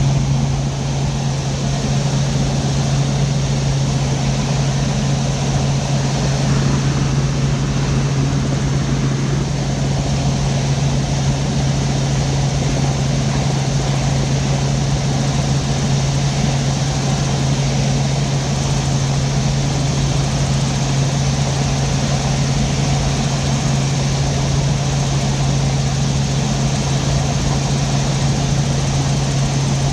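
Helicopter engine and rotors running steadily, a constant loud drone with a strong low hum.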